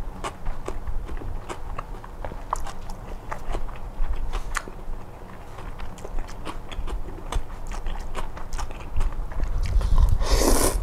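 Close-miked eating: a person chewing and biting crunchy food, with many short sharp crunches. A loud rushing burst comes near the end.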